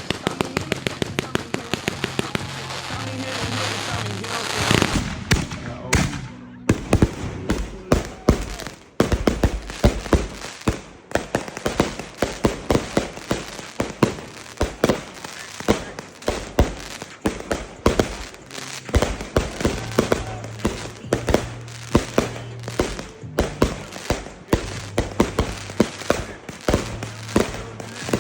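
Fireworks and firecrackers going off in many rapid, irregular bangs and crackles, over background music with a steady bass line.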